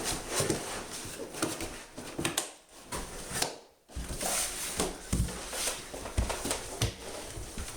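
Irregular thumps, knocks and footfalls of someone running and jumping around indoors, with heavy low landings now and then. The sound drops out twice briefly, about two and a half and three and a half seconds in.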